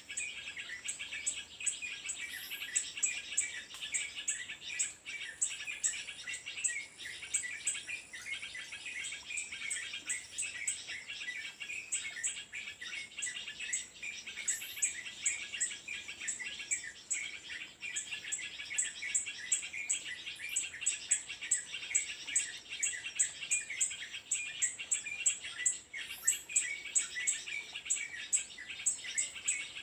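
Small birds chirping and twittering rapidly and continuously, over a regular train of high, sharp ticks at about three a second.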